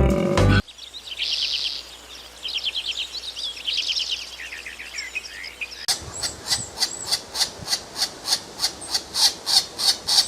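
Birds chirping: quick runs of high chirps and trills, then a steady repeated chirp about three times a second. A few notes of music end about half a second in.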